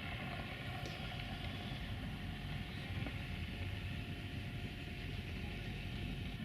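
A vehicle running steadily: a constant hum of several held tones over a low rumble.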